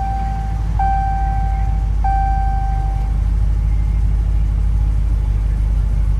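5.7-litre Hemi V8 of a Dodge Challenger R/T idling steadily just after start-up, a deep even rumble. A single-note dashboard chime repeats twice more in the first three seconds, then stops.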